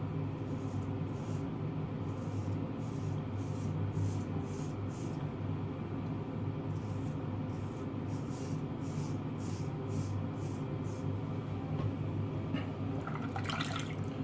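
Vintage Aiku straight razor scraping through lathered stubble: short rasping strokes about two a second, in several runs, with a louder, longer rasp near the end. A steady low hum sits underneath.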